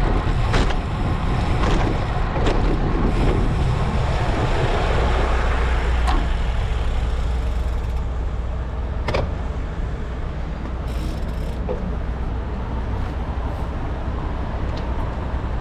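Wind rushing over the action camera's microphone and tyre noise from a road bike in motion, a steady low rumble with a few sharp clicks.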